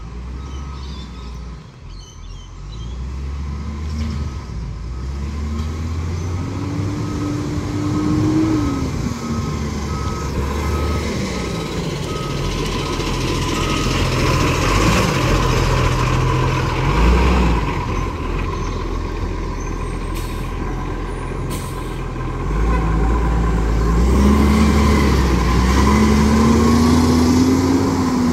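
Garbage truck engine revving up and settling back, twice, with a reversing beeper sounding repeatedly through the first half.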